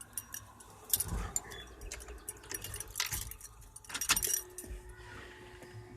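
Keys jangling, with scattered light clicks and knocks. A faint steady tone comes in about four seconds in. The engine is not yet running.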